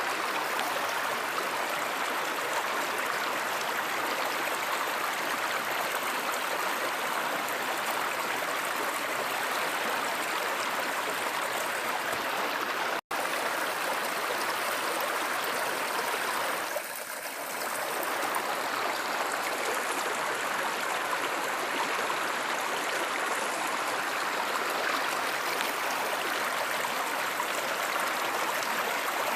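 A river or stream running: steady rushing and gurgling water. The sound drops out for an instant about thirteen seconds in.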